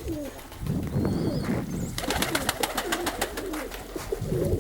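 Domestic pigeons cooing, low rolling calls that rise and fall repeatedly, with a quick run of sharp clicks or taps about two to three seconds in.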